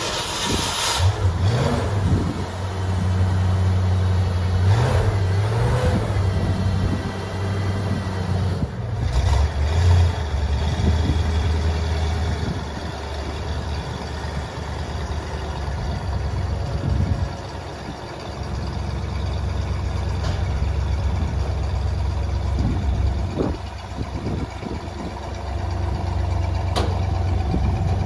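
Ford Mustang engine running just after being started, mostly idling, its note rising and falling a few times.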